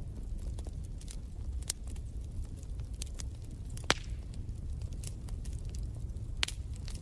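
Wood fire crackling in a fireplace: irregular sharp pops and snaps over a steady low rumble of the flames, with a louder pop about four seconds in and another about six and a half seconds in.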